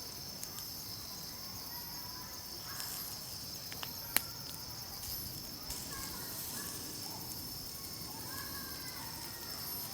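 Night insects chirring in a steady high trill, with shorter, lower chirping calls coming and going. A single sharp click sounds about four seconds in.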